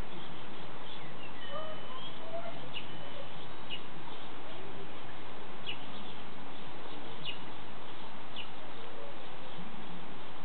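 Birds chirping now and then, short scattered calls over a steady background hiss.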